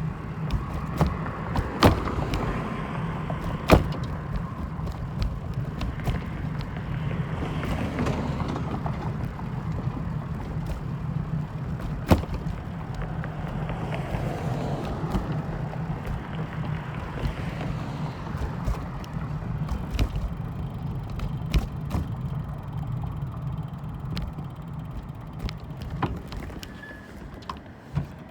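Steady low mechanical hum with scattered sharp clicks and knocks, the loudest knocks about two, four and twelve seconds in.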